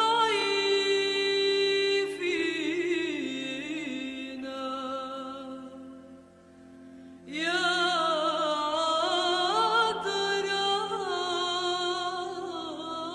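A woman's voice singing a slow Arabic hymn with wide vibrato over steady held accompaniment notes. One long phrase fades away about five seconds in, and the next begins about two seconds later.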